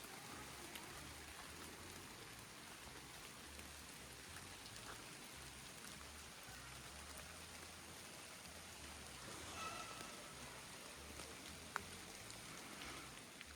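Steady rain falling in the forest: an even, faint hiss with scattered drop ticks, and one sharper tick near the end.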